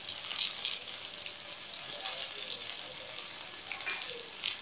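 Eggplant slices shallow-frying in oil in a pan: a steady sizzle with scattered small crackles and pops.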